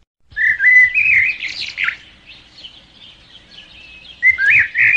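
Birds chirping and twittering: a burst of quick whistled chirps in the first two seconds, softer twittering after that, then loud chirps again near the end.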